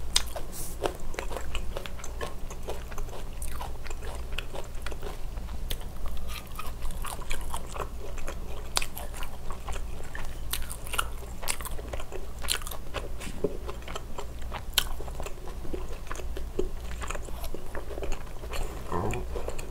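A person chewing and biting marinated pork ribs close to the microphone: a steady run of short, wet clicks and crunches.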